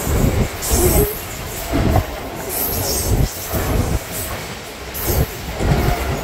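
Steady loud rumble and clatter of train wheels on rails, with uneven heavier jolts about once a second and a few brief high hissing squeals. Heard from inside a suburban electric local train at its open grilled window while a second local train runs close alongside on the next track.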